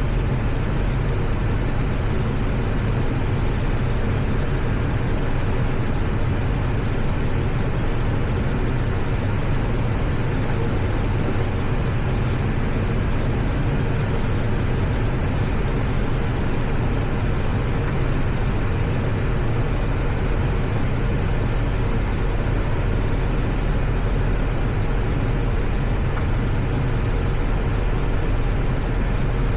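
Steady flight-deck noise of an Airbus A320 on approach: a constant rush of air with a deep, even hum underneath.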